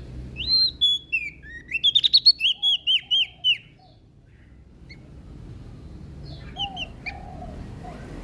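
Prenjak daun singing a quick, high-pitched run of slurred chirping notes for about three seconds, then a short phrase of a few more notes near the end, with fainter lower whistled notes underneath.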